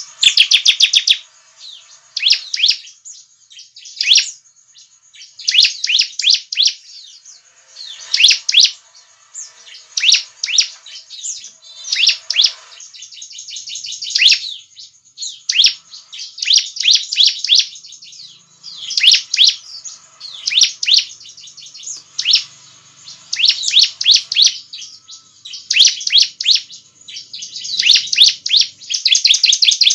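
Bar-winged prinia (ciblek) singing loudly: repeated phrases of fast, high-pitched chirping notes, each about a second long, coming every second or two with short pauses between.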